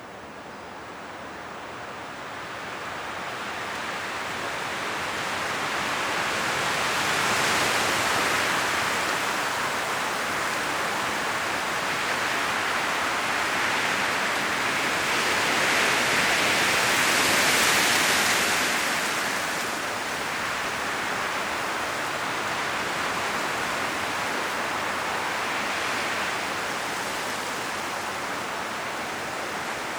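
Wind blowing through forest trees, the leaves rustling in a steady rush that builds in gusts, the strongest about a third and again just over half of the way through, then easing slightly.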